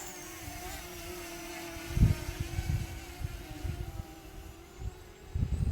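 Parrot Anafi quadcopter's propellers giving a steady hum as the drone climbs away, fading near the end. Wind buffets the microphone with low rumbles, strongest about two seconds in.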